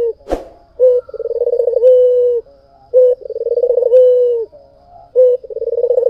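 White Barbary dove (puter) cooing over and over. About every two seconds it gives a short note followed by a longer rolling coo. A single sharp click comes just before the first full call.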